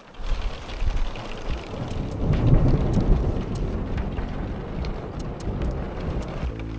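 Steady rain falling, with scattered sharp drop ticks and a low rumble that swells about two seconds in and slowly fades.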